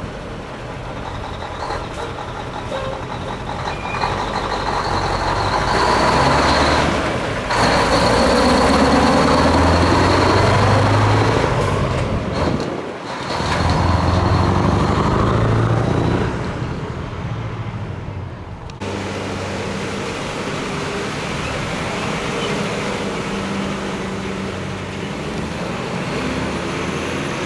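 Diesel engines of heavy trucks running and driving past, swelling to their loudest through the middle. The sound changes abruptly about nineteen seconds in.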